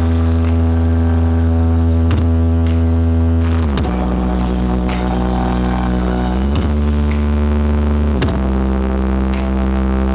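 Large carnival-mode Blizzard Audio sound system playing bass-heavy electronic music at high volume. Long, deep held notes change pitch every couple of seconds, each change marked by a short downward swoop.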